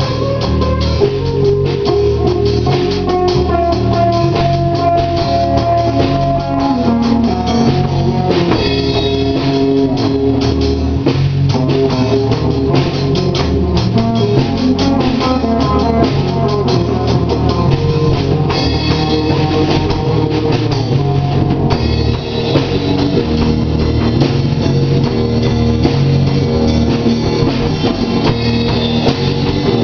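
Stoner rock music played by a band, with a drum kit keeping a steady beat under guitar.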